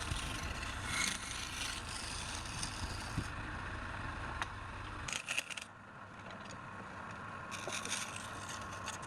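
Woodturning lathe running with a tool scraping against the spinning workpiece; the motor's low hum stops about five seconds in, followed by a few knocks and another short scrape.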